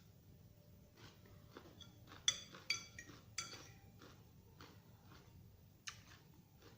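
Cutlery clinking against a dish: three sharp, ringing clinks between about two and three and a half seconds in and another near six seconds, with softer taps in between.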